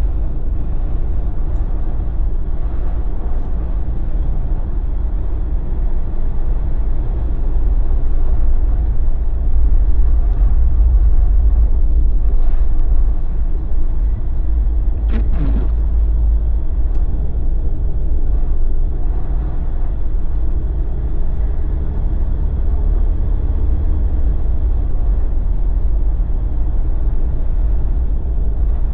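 Jeep driving on a snow-covered road: a steady low rumble of engine and tyres, with a brief sharper sound about halfway through.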